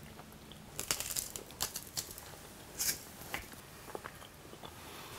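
A man eating a piece of dry-aged beef strip loin steak: quiet, scattered mouth clicks and smacks of chewing.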